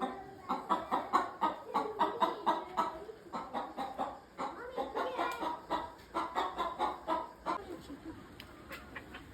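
Chickens clucking in quick, repeated clucks, several a second, which die away near the end.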